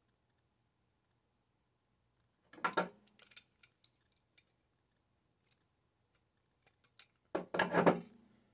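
Hand tools and small metal parts of a microwave clicking and scraping as it is taken apart. There is a short clatter about two and a half seconds in, a few single clicks, then a louder clatter near the end.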